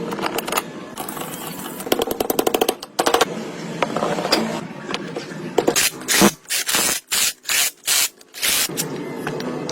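Power tools in a workshop: rapid rattling runs of clicks, then a string of short, loud hissing blasts with brief gaps between them.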